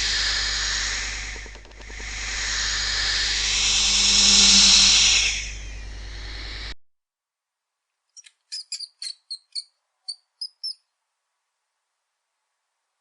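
A long hiss swells, dips briefly and swells again before fading. After a stretch of dead silence comes a quick run of about ten short, high-pitched chirps from a small animal.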